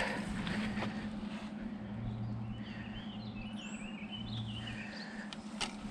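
Birds chirping in short, quick calls over steady outdoor background noise and a low, steady hum.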